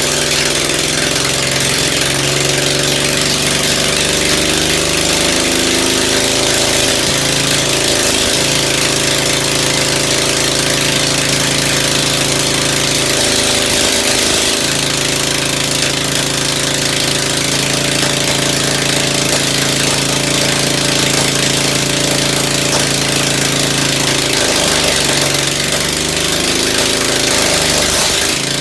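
Rebuilt Ford engine running under tune-up, its speed shifting several times as an adjustment screw is turned and then settling to a steady run between adjustments.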